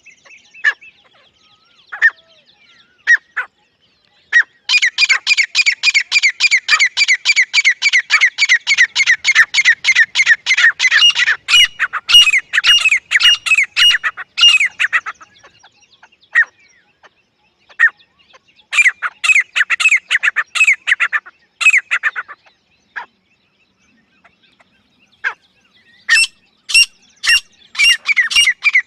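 A grey francolin (dakhni teetar) calling loudly. A few single notes come first, then a long run of fast repeated calls at several a second for about ten seconds. After a pause there is a shorter run, and another run starts near the end.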